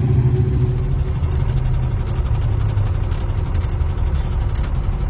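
Ford Cargo truck's diesel engine running steadily while driving, heard from inside the cab with the engine right beneath the seats, with a steady low hum and light rattles.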